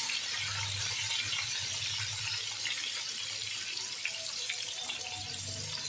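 Tofu cubes sizzling in hot oil in a wok: a steady frying hiss.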